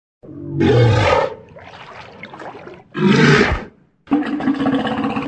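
Walrus bellowing: two loud calls about two seconds apart with quieter sound between them, then a steadier, drawn-out call near the end.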